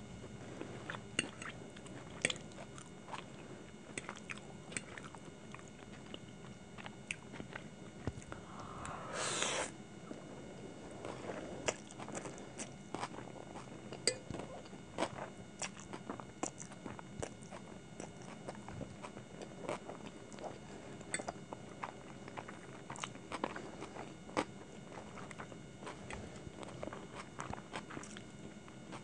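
Close-miked chewing and mouth sounds of eating hakka noodles, with many small sharp clicks. About nine seconds in there is one brief, louder rush of sound.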